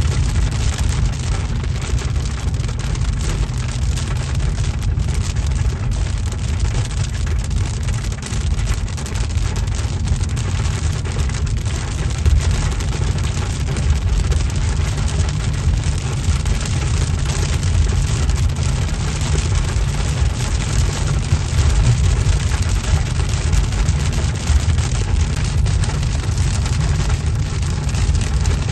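A car travelling in heavy rain: a steady low road rumble with rain hitting the car and the wet road.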